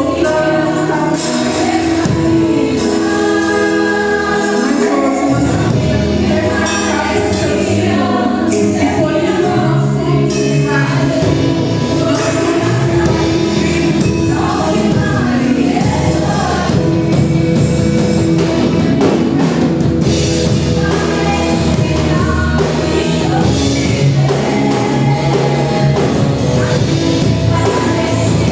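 Live gospel worship music: a group of voices singing over a band, with continuous accompaniment.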